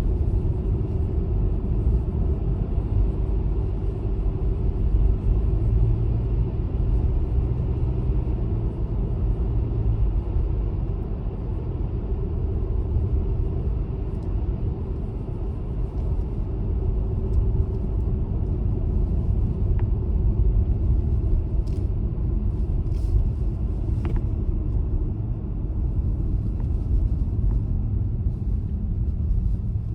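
Steady low rumble of a car being driven: engine and road noise, with a few faint ticks about two-thirds of the way through.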